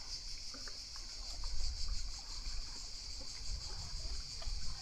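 A steady high-pitched buzzing hiss runs throughout, with low rumbles of wind or handling noise on the microphone, strongest between about one and a half and two and a half seconds in.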